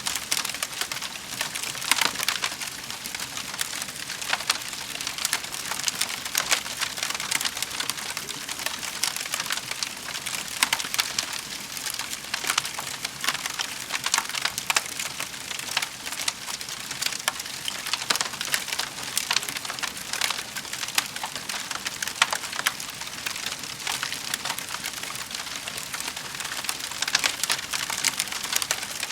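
Wood fire crackling in a fireplace: a continuous dense crackle of small snaps and pops over a soft hiss, with a few sharper pops standing out.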